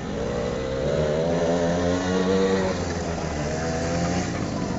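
Small quad bike engine running as the bike is ridden round the track, its pitch rising and falling a little.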